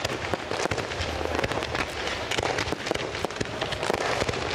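Fireworks going off: a dense, continuous run of rapid crackling pops, many per second, with no single standout bang.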